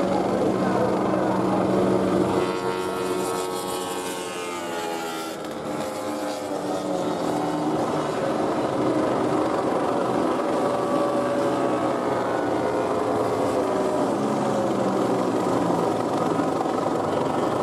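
MotoGP racing motorcycles' engines running at speed, with one bike passing and falling in pitch a few seconds in.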